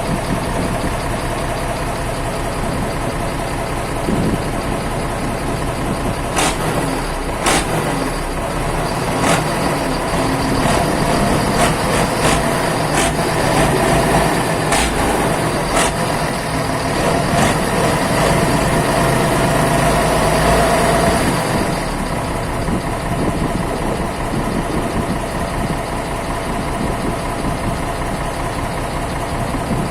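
Isuzu 12PB1 V12 diesel running on its first start after a major overhaul, still burning off old oil. It runs a little louder from about ten seconds in, then settles back about twenty-two seconds in, with scattered sharp clicks in the first half.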